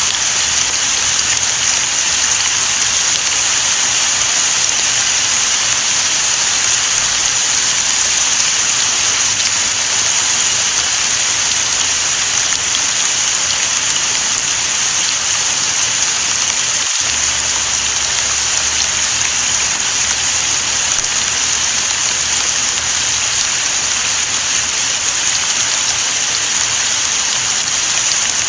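Steady, unbroken rain falling and pattering on surfaces, a constant hiss with no change in strength.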